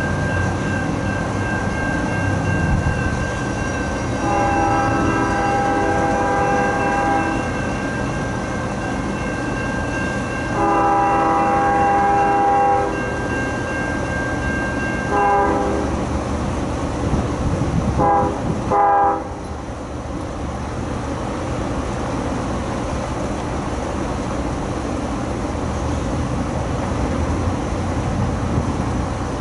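Diesel freight locomotive's multi-chime air horn sounding the grade-crossing signal: two long blasts, a short one, then a last blast broken into short pieces. A steady rumble of the passing train runs throughout and carries on after the horn stops.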